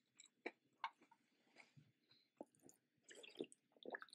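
Faint close-miked chewing of a mouthful of crispy Cheetos-coated fried chicken, with scattered soft mouth clicks and a brief louder patch about three seconds in.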